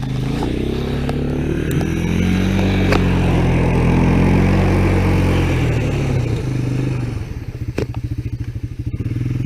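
Honda three-wheeler (ATC) engine revved up for wheel spin in snow. It climbs in pitch over the first couple of seconds, holds high, then drops back to a low, slower run about seven seconds in.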